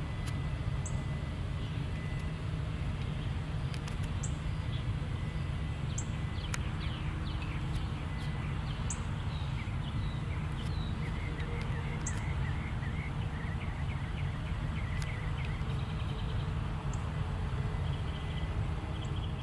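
Helicopter heard as a steady low rumble, with a bird chirping a quick run of short calls through the middle.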